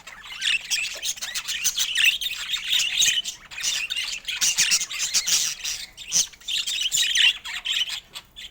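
Budgerigar chatter: dense, rapid chirps and warbles, pausing briefly a few times.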